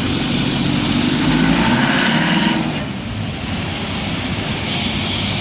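Road traffic on a wet road: a vehicle's engine and tyre noise going past, loudest in the first half and falling off about halfway through.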